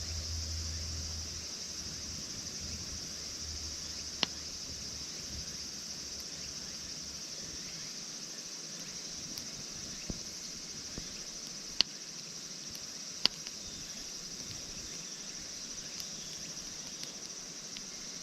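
Steady high-pitched insect chirring, like crickets at night, with a few sharp pops from a wood campfire.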